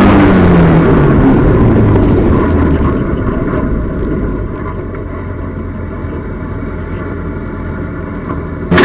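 Speedway car's engine heard from inside the cockpit: its revs fall as the throttle is lifted, and it settles into a lower, steady idle as the car slows. Just before the end the throttle is opened and the engine suddenly gets loud again.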